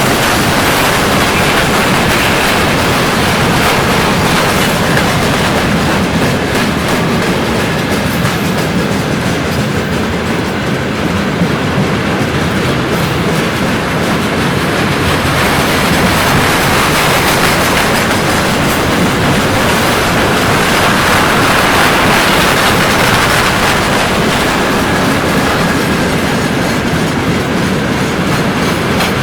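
Freight train wagon wheels clattering steadily over rail joints as the train rolls across a bridge.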